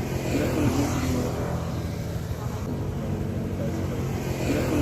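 An engine running at a steady idle, with faint, indistinct voices in the first second or so and again near the end.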